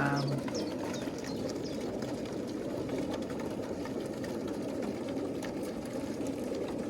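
Dense, steady murmur of many young racing pigeons cooing together inside a loaded transporter, with a few faint high chirps near the start.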